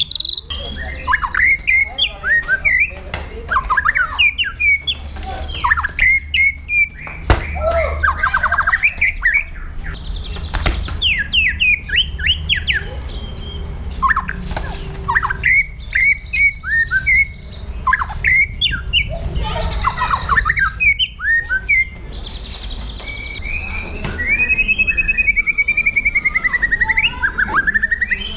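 White-rumped shama (murai batu) singing a rapid, varied string of whistles, chirps and harsh notes in short bursts, with a long wavering trill near the end. A steady low hum runs underneath.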